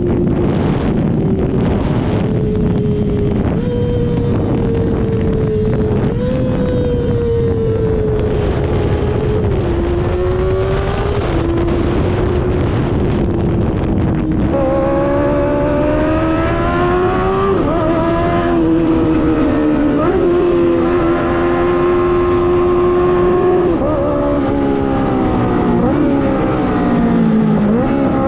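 Kawasaki ZX-25R's 250 cc inline-four engine running, its pitch rising and falling repeatedly with the throttle, with wind on the microphone in the first half. About halfway through the sound changes abruptly to a fuller, closer engine note.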